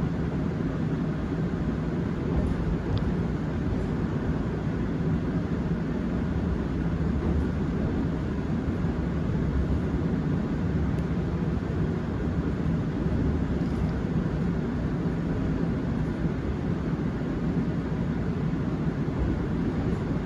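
Interior running noise of a Seoul Subway Line 7 7000-series electric train: a steady rumble of wheels on rail with a faint, even motor hum.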